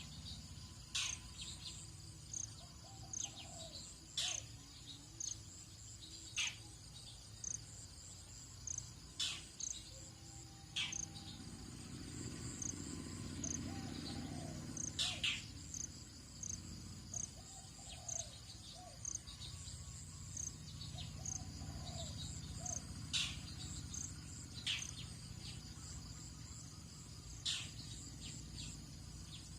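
Tropical dawn chorus: insects trill steadily high up, with one chirping in a regular pulse, while birds give short, sharp calls every second or two and softer low calls come in now and then. A low steady rumble lies underneath, swelling briefly in the middle.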